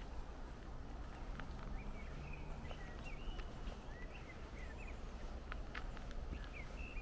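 Small birds chirping in short rising and falling calls over a steady low outdoor rumble, with a few sharp clicks in the middle.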